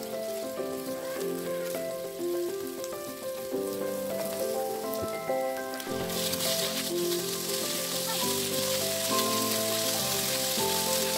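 Diced chicken and sliced shallots frying in oil in a stone-coated wok. The sizzle is light at first and gets much louder about six seconds in, when the raw chicken goes into the pan. Gentle background music with a simple melody plays throughout.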